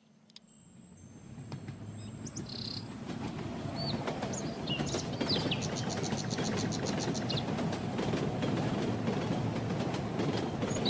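Cartoon outdoor ambience: a low, steady rumble of a train rolling along the track fades in over the first few seconds. From about two seconds in, birds chirp over it, with a quick trill of repeated chirps near the middle.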